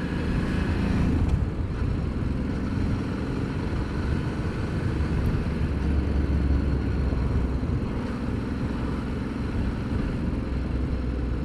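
Ducati Multistrada motorcycle engine running steadily while riding, with a low, even hum.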